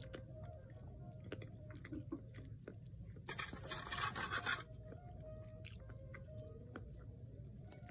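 A person wearing dentures chewing a hamburger with the mouth closed: soft, quick clicks and smacks. About three seconds in comes a louder scratchy noise lasting just over a second.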